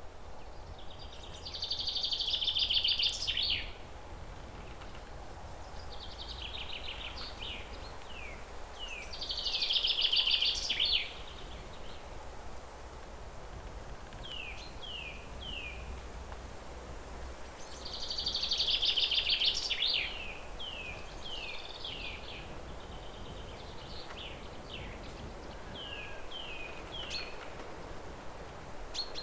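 Wild birds singing: a rapid, dense song phrase about two seconds long comes three times, with short falling notes in small groups between phrases, over a steady low background noise.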